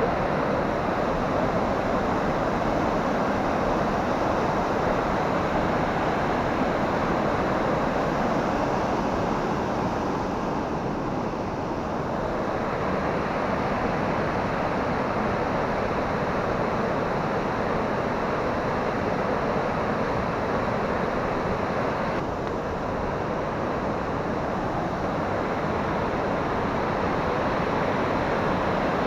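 Steady rushing noise with no distinct events, easing slightly about ten seconds in and again a little past twenty seconds.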